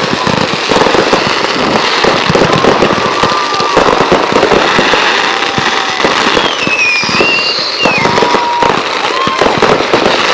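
Dense, continuous crackling and popping of consumer fireworks, with several whistling tones gliding up and down through it.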